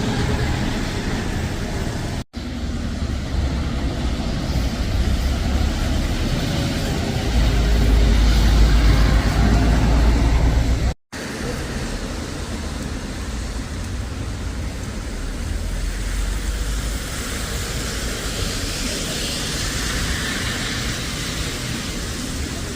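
Road traffic with a vehicle engine's low rumble, which grows louder for a few seconds in the middle. The sound cuts out for a moment twice.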